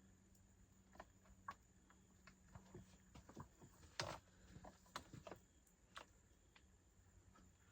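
Faint, scattered clicks and taps of hands working the controls on a cheap new chainsaw that has not started, the loudest about four seconds in.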